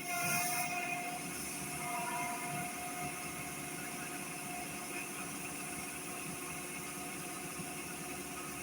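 Yanmar rice combine harvester's diesel engine running steadily, a continuous machine drone with several steady whining tones, a little louder in the first second.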